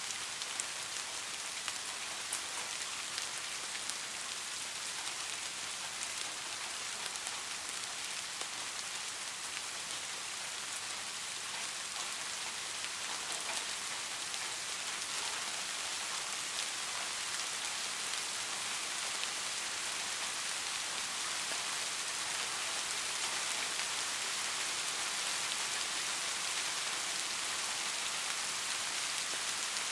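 Steady rainfall: an even hiss with small drop ticks scattered through it.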